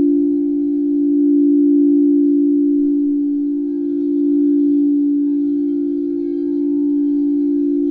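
Singing bowl sounding one steady, sustained low tone with fainter higher overtones, its loudness slowly swelling and easing every few seconds.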